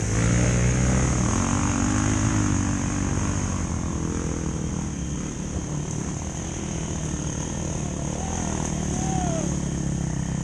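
Enduro dirt bike engine revving, its pitch rising and falling over the first few seconds, then running lower and steadier.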